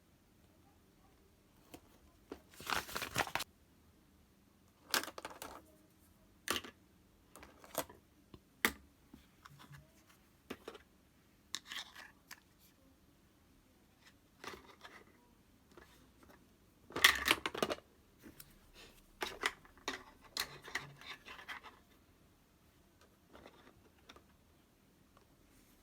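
Scattered short rustling, scratching and tapping sounds of hands working with crafting materials while decorating, separated by quiet gaps. The loudest rustles come about three seconds in and again past the middle.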